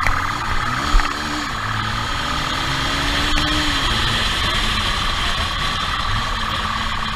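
Vehicle engine running during a police pursuit, its pitch rising and falling several times as the speed changes, with a sharp knock about a second in.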